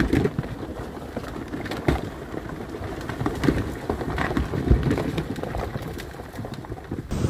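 Rock slide: irregular knocks and clatters of rocks tumbling down onto a highway over a low rumble. Near the end it cuts abruptly to a steady rushing noise.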